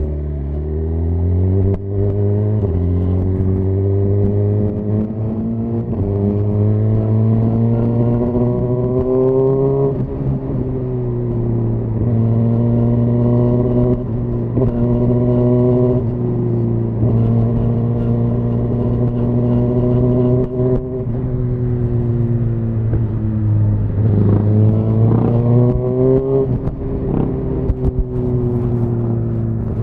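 Suzuki GSX-R1000R inline-four engine through a Yoshimura R-11 SQ exhaust, pulling through the gears: the engine note climbs steadily, then drops sharply at each upshift, about five times, with a quicker run of revs rising and falling near the end.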